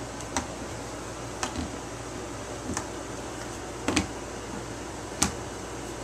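A few sharp, separate clicks, about five spread a second or so apart, from switchblades being handled, over a steady low room hum.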